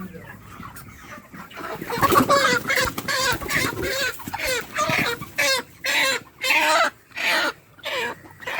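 A chicken squawking loudly in a rapid string of short calls, starting about two seconds in; from about halfway the calls come more separately, roughly two a second.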